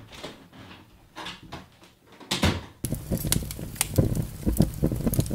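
Scattered faint knocks, then a loud burst about two and a half seconds in. From about three seconds a fire-burning sound effect gives a dense, loud crackle of a blaze, standing for a microwave on fire after metal was left inside it.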